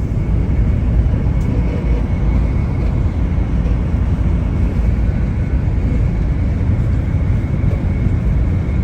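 Passenger train running: a steady, loud low rumble inside the carriage, with a faint steady high whine over it.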